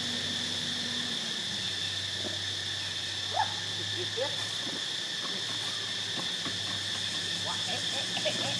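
Steady drone of insects, with a low hum beneath and a few short high squeaks about halfway through.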